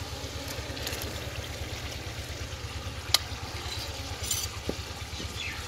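Yogurt-marinated mutton sliding from a bowl into hot fried masala in a pot and sizzling steadily, with a single sharp click about three seconds in and a low hum underneath.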